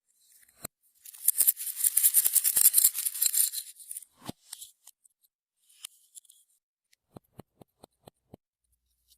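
Clear slime being worked by hand: a dense run of crackling clicks and pops for about three seconds, then a few separate clicks near the end.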